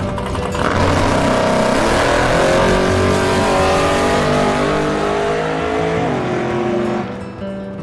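Drag car engine at full throttle down the strip, its pitch climbing steadily, then falling away near the end as the car lifts off.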